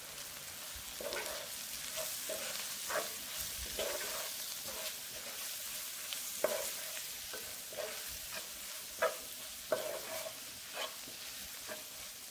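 Onion-tomato masala with freshly added ground spice powder sizzling in a frying pan while a wooden spatula stirs it: a steady frying hiss with repeated scraping strokes and a few sharper knocks of the spatula against the pan.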